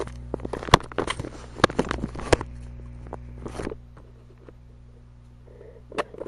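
Handling noises: a quick run of clicks, taps and rustles over the first three and a half seconds, then quieter, with a few more clicks near the end.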